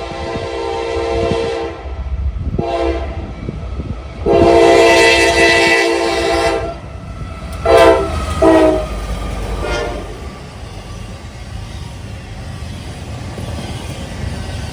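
Diesel locomotive horn blowing a sequence of blasts, several tones sounding together: a blast that cuts off, a short toot, a long loud blast, then two short toots that echo away. A steady low train rumble runs underneath.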